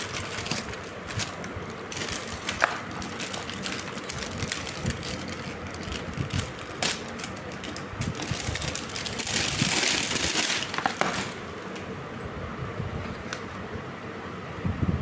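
Plastic packaging of sanitary pads rustling and crinkling as it is handled and opened, with scattered small clicks and a louder stretch of rustling about ten seconds in.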